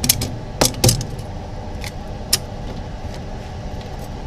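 A few sharp clicks and clinks of small parts and tools being handled on a repair bench, the loudest two close together about a second in, over a steady low machine hum.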